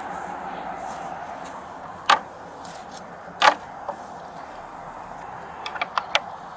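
Steady outdoor hiss with a few sharp clicks and knocks: one about two seconds in, a louder one about three and a half seconds in, then a quick run of four or five near the end.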